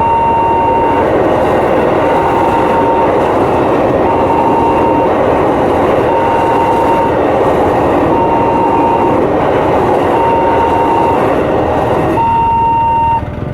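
A train running past a level crossing, its rumble of wagons cutting off suddenly about a second before the end. Over it the crossing's electronic alarm sounds a repeating high beep about once a second.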